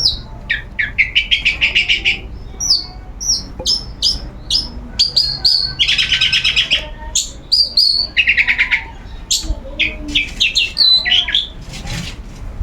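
Long-tailed shrike (cendet) singing without pause: a fast jumble of sharp, high chips and whistled notes, broken by several longer scratchy rattles.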